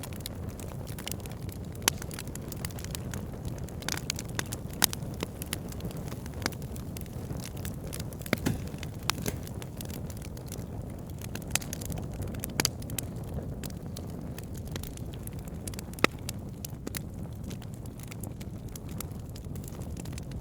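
Wood fire burning: a steady low rumble of flames with frequent sharp crackles and pops, a few of them louder, the loudest about sixteen seconds in.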